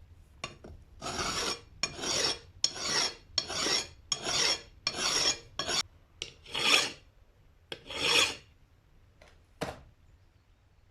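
Rasping, scraping strokes across a surface, about a dozen of them, each lasting roughly half a second. They come at an uneven rhythm and stop near the end.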